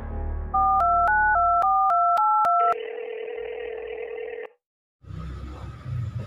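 Telephone keypad dialing tones: about eight quick beeps in a row, each a pair of tones, as a number is dialed. A steady phone tone follows and cuts off about four and a half seconds in. Background music fades out at the start.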